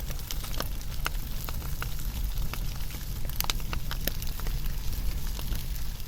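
Wood fire burning: a steady low rumble and hiss of the flames, with irregular sharp crackles and pops, several a second.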